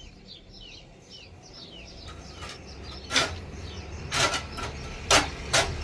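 A small bird calling with a quick run of short, falling chirps, about three a second, which fade out about two seconds in. Then come four sharp cracking or scraping sounds, the loudest a second or so apart, over a rising low rumble.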